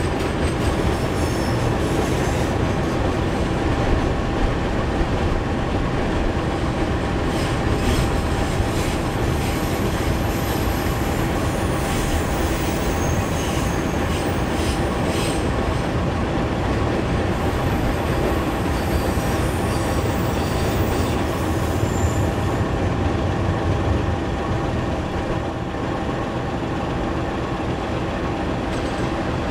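Freight train wagons rolling steadily past on the rails, with thin, high wheel squeals now and then and a few clicks over rail joints in the middle.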